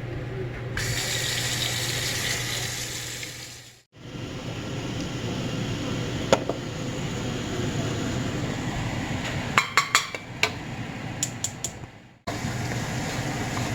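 Cold water running from a kitchen tap over freshly blanched vegetables to stop the cooking, a steady rush lasting about three seconds. After a cut come a few sharp clinks of dishes and utensils.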